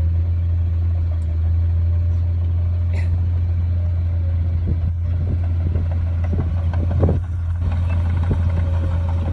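Komatsu D58P bulldozer's diesel engine running steadily, with a few knocks and clanks in the second half, the loudest about seven seconds in.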